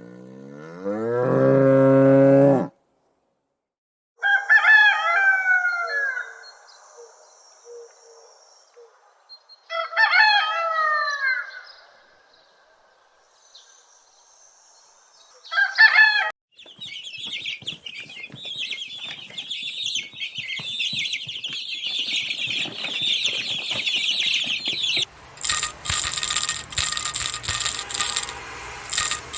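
A run of separate animal calls: a drawn-out call at the start, then crowing from domestic fowl twice, a short call, a long stretch of busy high chirping, and rattly clicking near the end.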